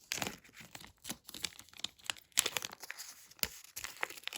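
A shiny paper-surprise packet being torn open and crinkled by hand: irregular rustling with a series of sharp rips, the loudest a little past halfway.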